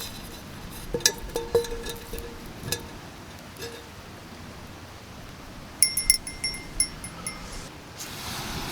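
Metal camp cookware being handled: ringing clinks and knocks for a couple of seconds, then a quick run of bright, bell-like clinks that rattle and die away. A soft rushing noise rises near the end.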